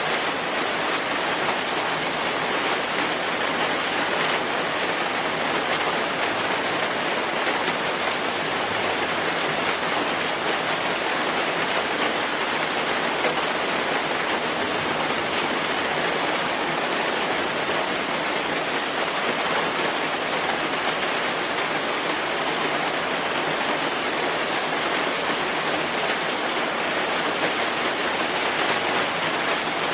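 Steady rainfall with a dense patter of drops on a surface.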